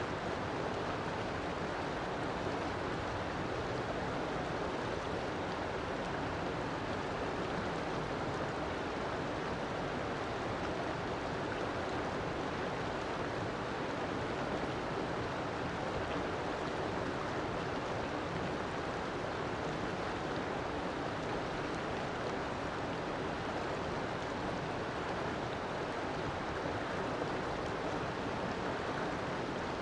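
River water flowing, a steady rushing and burbling of running water.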